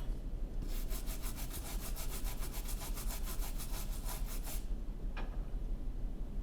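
A toothbrush scrubbing a dirty LCD connector on an iPad mini donor logic board, fast even back-and-forth strokes of about seven a second, stopping about two-thirds of the way through. A single faint tick follows shortly after.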